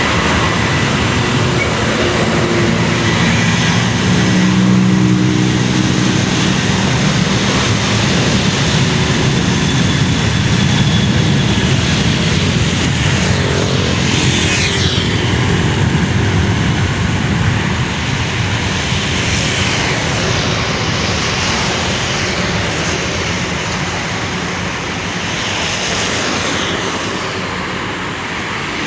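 Airliner engines running loud and steady, with a falling whine about halfway through as the plane passes.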